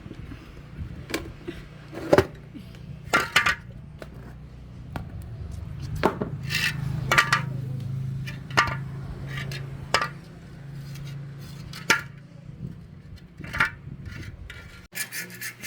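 Metal tools and parts clinking and knocking against each other in a workshop: about a dozen separate sharp knocks with short ringing, over a low steady hum.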